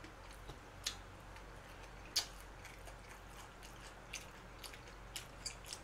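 A man chewing food, faint, with scattered small clicks from his mouth and chopsticks, about half a dozen over the few seconds.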